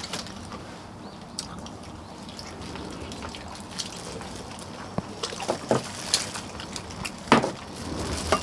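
Eating sounds from a bowl of chicken soup with nurungji: soft liquid sounds of broth being spooned and eaten, with scattered clicks of utensils, the sharpest about seven seconds in.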